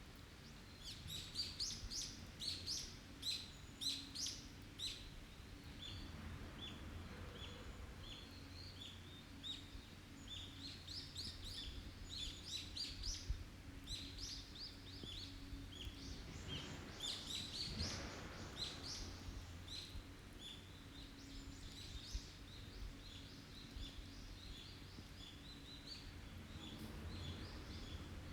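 Forest songbirds chirping and calling in quick runs of short high notes, over a faint steady low background.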